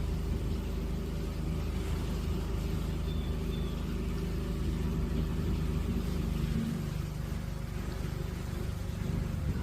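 Passenger boat's engine droning steadily under way, its low tone shifting about two-thirds of the way through.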